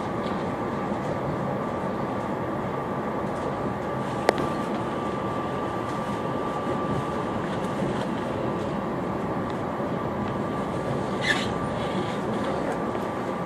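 Steady running noise inside a SEPTA Silverliner V electric multiple-unit railcar, with a steady high hum over the rumble. A single sharp click comes about four seconds in, and a short higher-pitched noise near the end.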